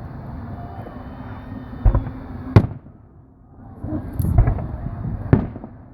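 Aerial fireworks shells bursting: two loud bangs about two seconds in, then a cluster of several more bangs near the end.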